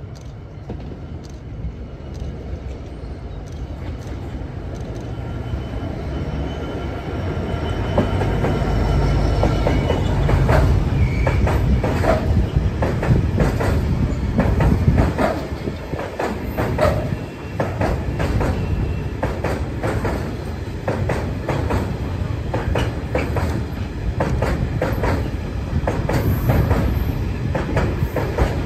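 A diesel freight train approaching and passing close by. The locomotive grows steadily louder over the first several seconds, then a long rake of hopper wagons rolls past with a continuous rumble and a rapid clatter of wheels over rail joints, with some wheel squeal.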